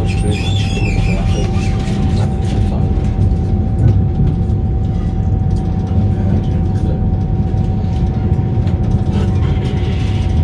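Low, steady rumble of a passenger train moving slowly through a station, heard from inside the carriage, with a steady thin whine over it.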